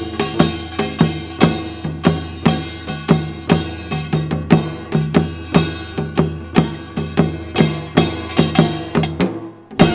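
Instrumental accompaniment to a Korean folk song: drums strike a fast, uneven rhythm of about three beats a second over a steady held low note. It breaks off about nine seconds in.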